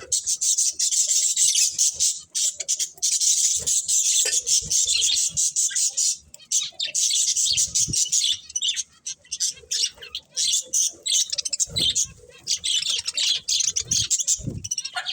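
Budgerigars chirping and chattering in a rapid, high-pitched, almost unbroken warble, with a couple of short low thuds near the end.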